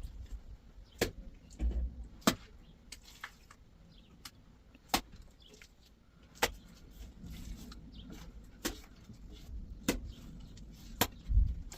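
A series of sharp, short clicks or snaps, about one a second at irregular spacing, over a low rumble.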